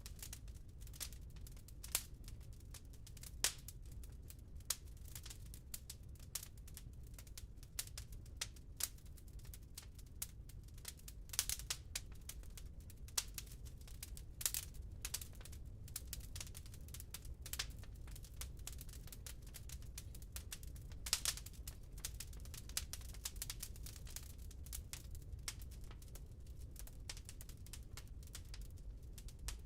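Burning wood in a fireplace crackling: irregular sharp pops and snaps, some louder than others, over a low steady rumble.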